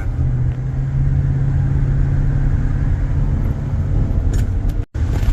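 Steady low road and engine rumble inside a moving van's cabin, with a held low drone through most of it; it drops out for an instant near the end.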